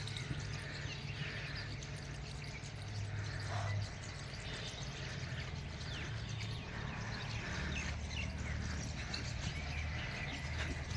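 Small birds chirping, with a steady low rumble underneath.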